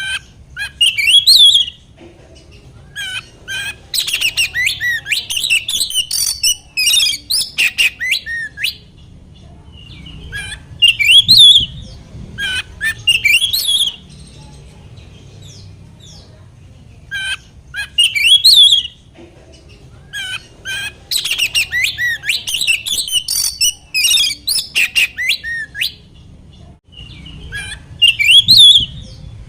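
Oriental magpie-robin (kacer) singing loud, fast, varied phrases in bursts of a few seconds with short pauses between them. This is the kind of song played to provoke a caged male into answering.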